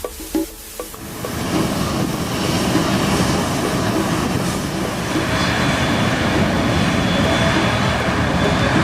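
Jet airliner engines at close range: a loud rushing noise that builds about a second in and then holds steady. A thin high whine joins it about halfway through.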